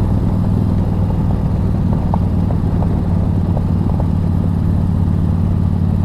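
Engine of a 2006 Harley-Davidson Street Glide, an 88 cubic inch fuel-injected V-twin with a loud exhaust, running steadily at an even speed under way.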